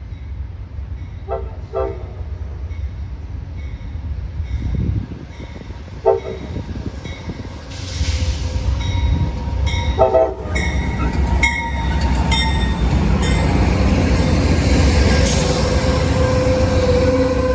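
A train approaching and passing, its horn sounding several short blasts and then a long held one near the end, over a rumble that grows louder about halfway through.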